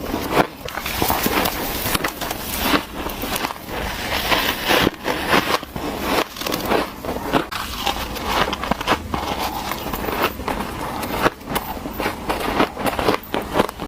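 White ice being bitten and crunched between the teeth: a rapid, irregular run of crisp cracks and crunches.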